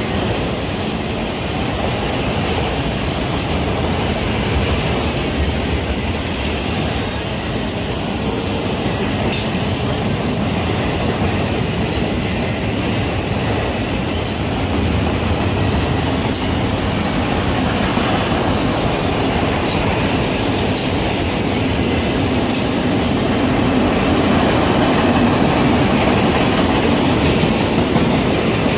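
Freight train of enclosed autorack cars rolling past at close range: a steady rumble of steel wheels on rail with scattered clicks, growing slightly louder near the end.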